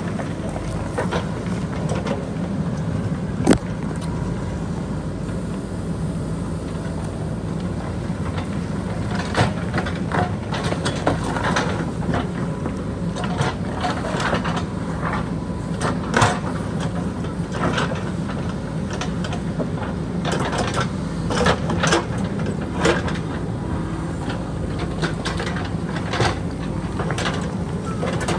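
JCB backhoe loader's diesel engine running steadily under load, with irregular sharp clanks and knocks from the bucket digging into rock and boulders; the loudest knocks come about three and a half seconds in and around sixteen seconds.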